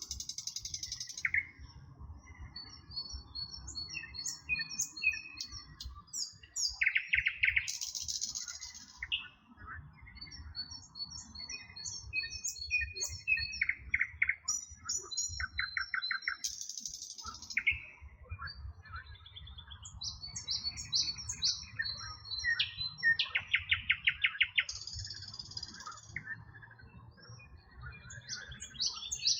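Several songbirds singing and chirping at once: series of short repeated high notes overlap with fast buzzy trills that come a few times, over a faint low rumble.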